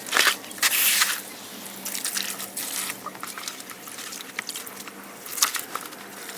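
Water from a garden hose splashing and dripping as dirty pond filter pads are rinsed off, in irregular gushes that start suddenly just before and keep on.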